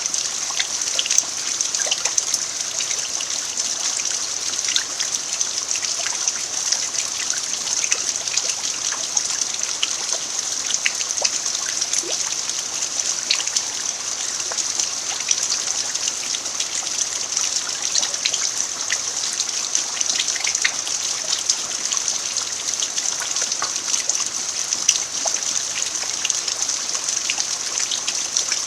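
Steady rain falling on a dirt yard, an even hiss with many separate drops ticking through it.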